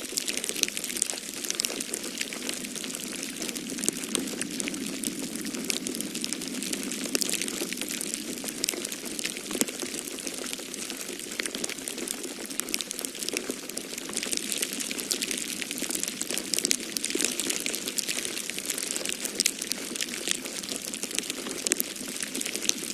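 Wood fire in a fireplace crackling with dense, irregular pops and snaps, over a steady low rush of snowstorm wind that swells a little now and then.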